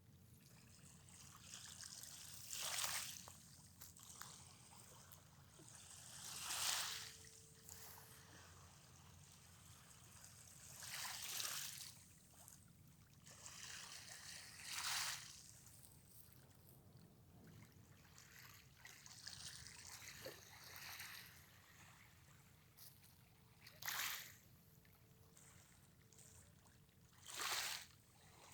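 Sea water washing and splashing in surges about every four seconds, over a faint steady low rumble.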